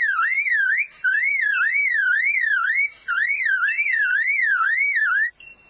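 Superb lyrebird mimicking a car alarm: a whistled tone sweeping up and down about twice a second, like an alarm siren, in three runs with short breaks, stopping shortly before the end.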